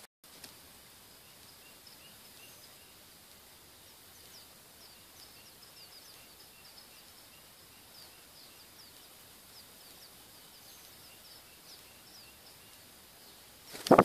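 Faint, rapid, high-pitched bird chirps, many short falling notes, over a quiet outdoor background with a faint steady high whine. A loud thump just before the end.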